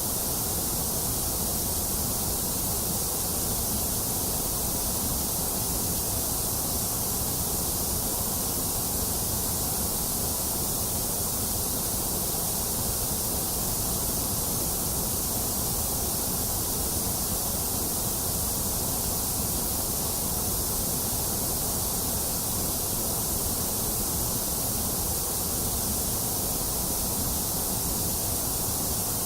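Steady, unchanging white noise of the kind played to soothe a baby: an even hiss, bright on top with a low rumble beneath, with no breaks or changes.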